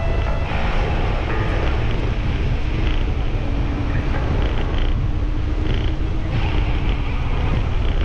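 Steady low wind rumble on an action camera's microphone while riding a bicycle, over faint outdoor ambience.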